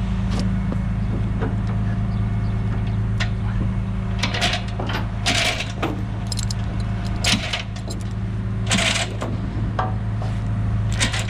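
Steel tie-down chain clinking and rattling in several bursts as it is dragged and wrapped around the load, over an engine idling steadily.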